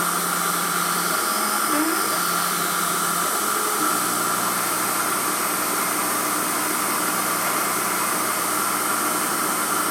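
Emco F1 CNC milling machine running a 2.8 mm drill at 2000 RPM through a cast aluminium engine pan: a steady motor whine, with a short rising whine about two seconds in.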